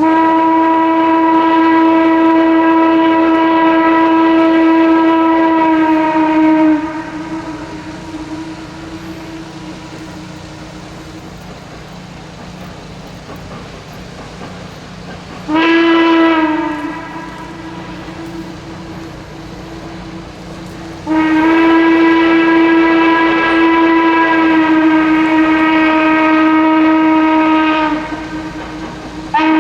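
Steam locomotive whistle blowing in a long blast of about seven seconds, a short blast partway through, another long blast, and a short one starting at the very end, each sagging slightly in pitch as it closes. Steady train noise runs underneath between the blasts.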